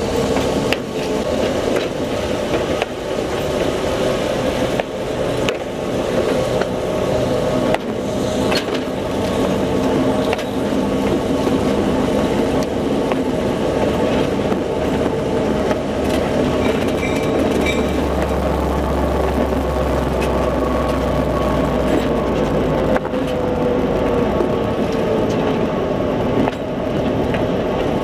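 Rail vehicle rolling along jointed track, picked up close to the rail and wheels: a steady running drone with scattered sharp clicks of the wheels over the rail. A deep low hum joins in for a few seconds past the middle.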